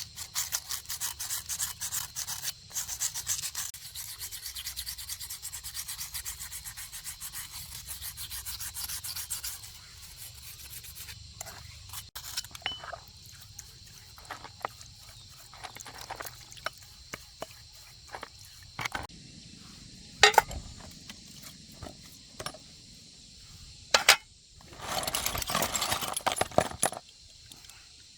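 Rapid, steady hand scrubbing or rasping strokes on a workpiece for about ten seconds. Then scattered clicks and knocks of parts being handled, with two sharp knocks, and another brief spell of strokes near the end.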